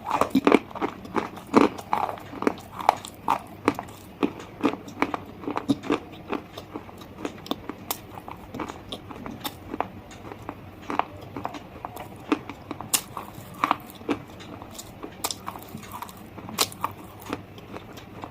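Close-up biting and chewing of hard slate stone pieces: a rapid run of sharp, crisp crunches, several a second, thickest near the start.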